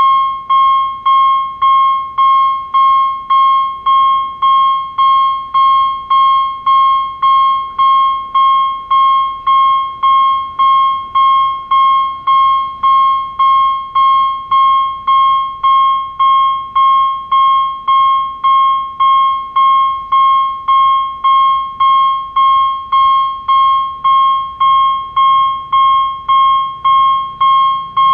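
Railway level-crossing warning bell ringing in a steady, even rhythm of about two strikes a second, each strike a clear ringing tone that fades quickly.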